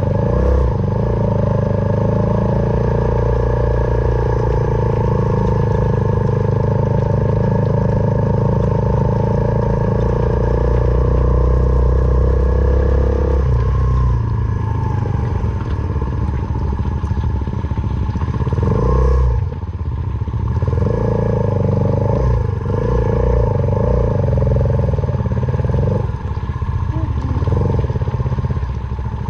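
Suzuki Van Van 125's single-cylinder four-stroke engine running through an aftermarket full exhaust while the bike is ridden off-road. The engine note changes about halfway through, and the throttle comes off briefly around two-thirds of the way in and again near the end.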